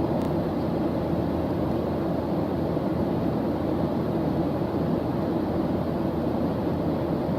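Steady white-noise background track: an even, deep rushing hiss that does not change.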